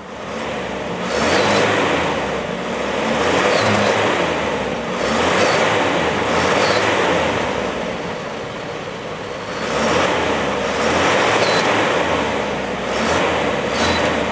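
A car engine revved again and again, its note rising and falling several times.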